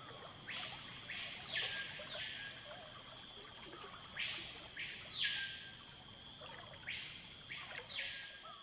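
Forest ambience: a bird gives three calls, each about a second long, that sweep up and then fall away, over a steady high insect drone.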